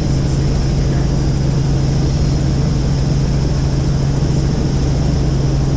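Helicopter in flight, heard from aboard: engine and rotors give a steady, unchanging drone with a strong low hum.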